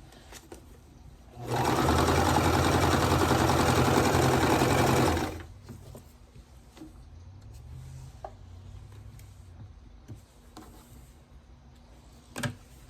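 Electric sewing machine stitching a seam at a steady fast speed for about four seconds, starting about a second and a half in and stopping abruptly. A much fainter hum follows for a few seconds.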